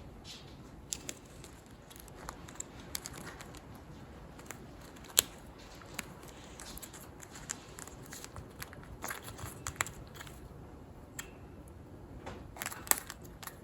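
A sun conure chewing with its beak, giving irregular small clicks, crackles and crunches, with one sharper snap about five seconds in.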